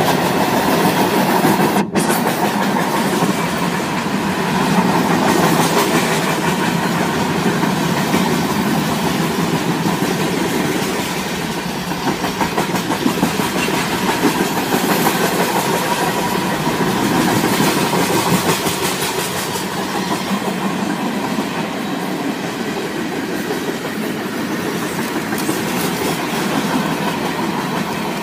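A long train's cars rolling past close by: a steady rumble with rapid clatter of steel wheels on the rail.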